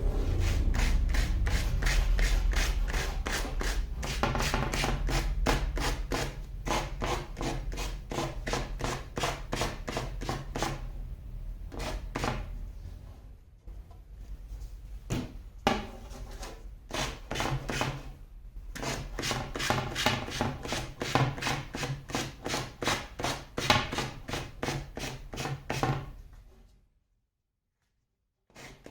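Hand abrading a hardwood stick: rhythmic back-and-forth rubbing strokes, about two to three a second, which stop abruptly near the end.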